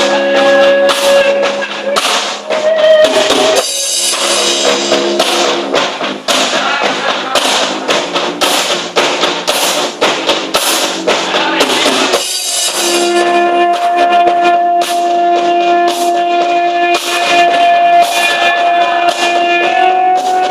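Live band music: a drum kit beating steadily under sustained held chords, with two brief breaks before the chords change.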